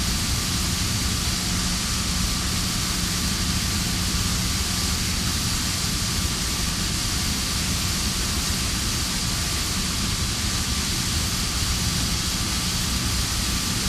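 Steady industrial plant noise: a constant loud hiss with a low steady hum underneath, from equipment and utilities still running.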